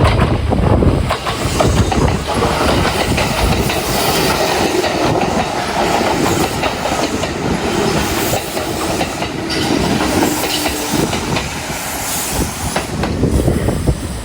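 Kintetsu 2800 series and 2430 series electric multiple-unit train running past, its wheels clacking over rail joints with a steady rumble.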